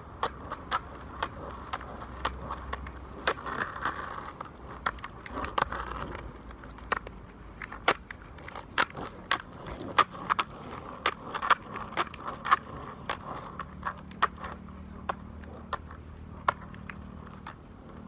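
Skateboard rolling on pavement: a steady low rumble from the wheels, broken by many sharp, irregular clicks and clacks.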